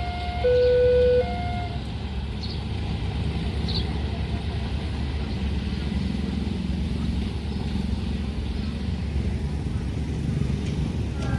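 Steady low rumble of road vehicles running at a railway level crossing. A loud two-note tone, alternating a lower and a higher note, ends in the first second and a half.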